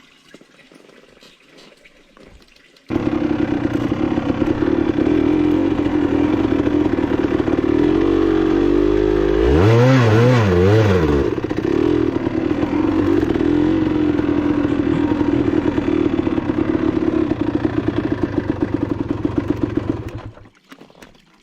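Enduro motorcycle engine running steadily, with a few quick throttle blips a little before the middle. It starts and stops abruptly, after a few faint seconds at the beginning.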